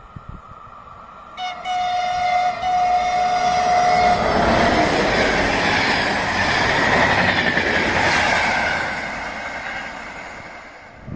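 A passing train sounds its horn for about three seconds, a greeting from the driver to people beside the track. The train then rushes past, its noise loudest in the middle and fading toward the end.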